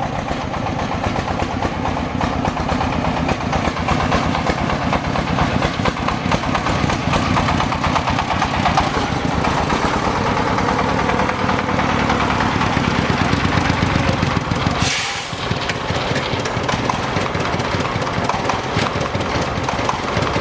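Old tractor engine running steadily with an even, rapid beat, dipping briefly about fifteen seconds in.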